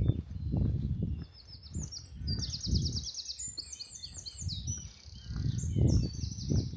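Footsteps crunching through snow at a steady walking pace. From about a second in, a small songbird sings a fast, high song of rapidly repeated notes.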